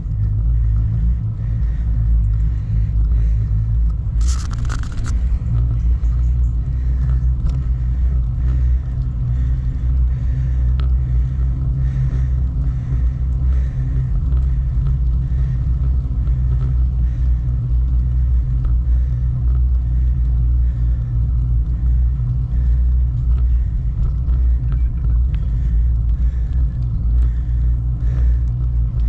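Steady low rumble of wind buffeting the microphone and tyre noise as a bicycle is ridden along a road, with a brief sharp rattle about four seconds in.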